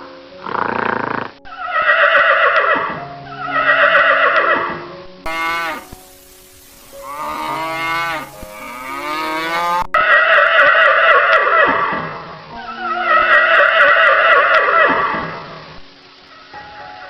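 A string of loud, drawn-out farm animal calls, four long ones with a quavering, whinny-like call in the middle. A faint steady music drone runs underneath.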